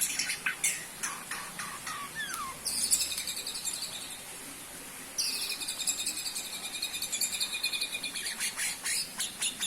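Songbird singing: a few short whistled notes and a falling slur, then rapid high trills, the second a long unbroken run starting about five seconds in.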